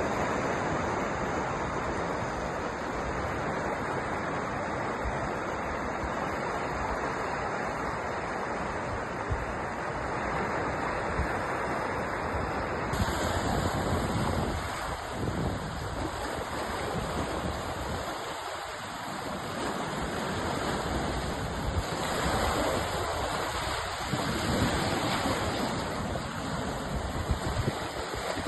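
Sea surf washing continuously against the shore, with wind buffeting the microphone.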